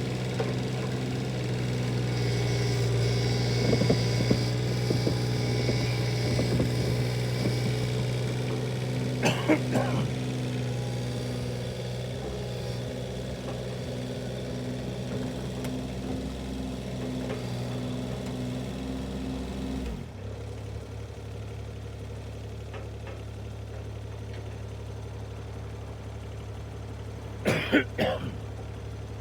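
An engine running at a steady speed, with a few short knocks about a third of the way in and again near the end. The engine note changes abruptly about two-thirds of the way through.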